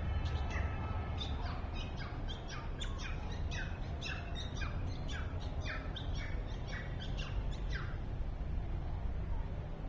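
A bird calling over and over, short falling chirps about twice a second from about a second in, stopping near the end, over a steady low rumble.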